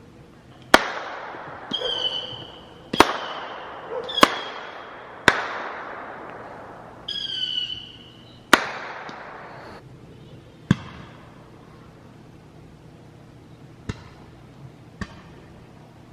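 Fireworks going off: a run of sharp bangs, each echoing away, with three short whistles in between. After about ten seconds the bangs come further apart and fainter.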